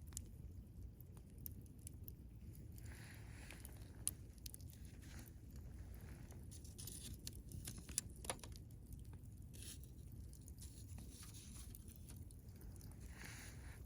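Wood campfire burning: faint crackling with scattered sharp pops, two louder ones about 4 and 8 seconds in, and brief hissing, over a steady low rumble.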